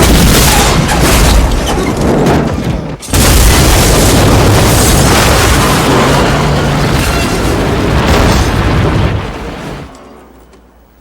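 A heavy vehicle crash: a tow truck rams an armored truck, and a long run of crunching and scraping metal follows. There is a brief drop just before three seconds in, then a second loud hit. A film score plays underneath, and the noise dies away near the end.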